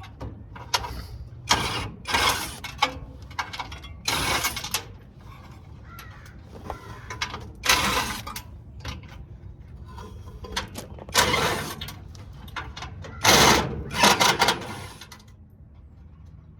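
Metal parts of a parking lot light fixture being handled and taken apart with hand tools: irregular clanks, scrapes and rattles, a dozen or so short bursts, the loudest pair near the end.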